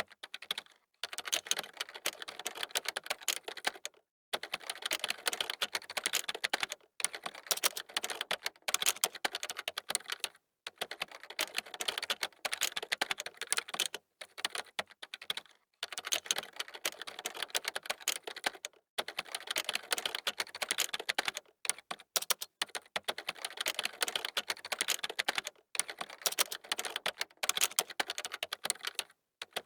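Fast typing on a computer keyboard: dense runs of key clicks, broken every few seconds by brief pauses.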